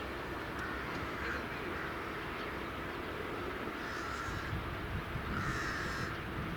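Steady low rumble of a train at a railway station, with two short harsh calls, about four and about five and a half seconds in.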